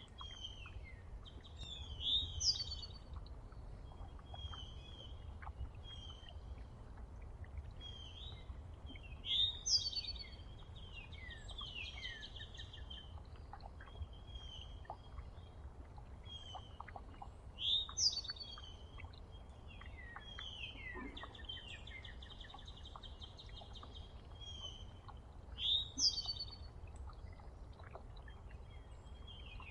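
Wild songbirds singing: one bird repeats a loud phrase of sweeping downslurred notes about every eight seconds, with softer chirps and buzzy trills from other birds in between. A low steady rumble runs underneath.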